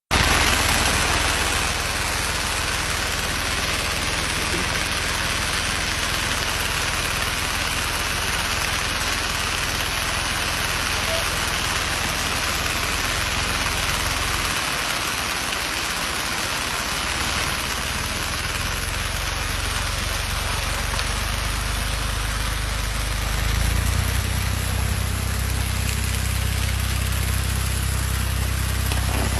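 Engine of a strawberry-field string-trimming machine running steadily under a constant even hiss. The low engine note grows louder about 23 seconds in.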